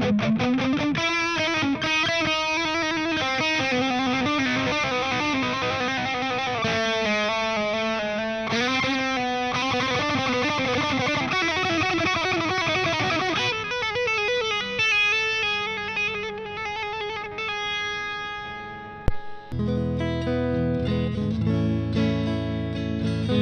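Stratocaster electric guitar played through a Valeton Dapper Mini amp-simulator pedal: a quick run of picked single notes, then, after a short click a little before the end, a chord left to ring.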